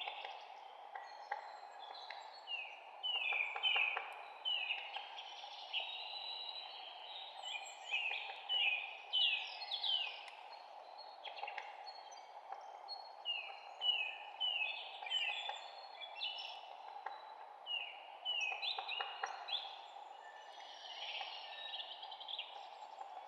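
Songbirds chirping, with many short, quick notes that slide downward in pitch and come in bursts throughout, over a steady background hiss.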